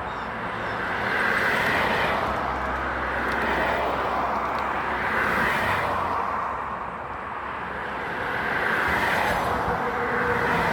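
Road traffic: vehicles driving past one after another, tyre and engine noise swelling and fading three times.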